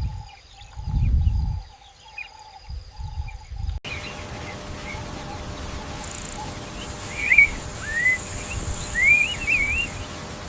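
Wild nature ambience: low rumbling swells at first, then after an abrupt cut a steady hiss with a high, steady insect drone and a few short bird chirps.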